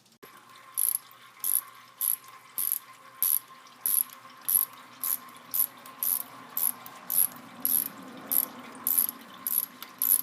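Hand ratchet wrench being worked back and forth, its pawl clicking in short even strokes a little under two times a second, as a fastener on the engine's hose connections is loosened.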